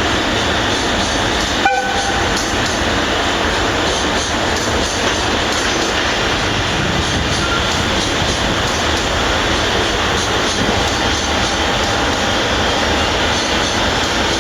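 Freight train running through a rail yard, a loud steady rumble of wheels on rails. Just under 2 s in comes one short horn toot.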